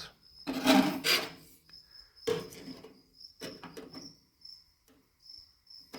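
Sheet-metal patch panel scraped and rubbed as it is handled and offered up to a steel door, with a loud scrape about a second in and lighter rubs and knocks after. Crickets chirp steadily throughout.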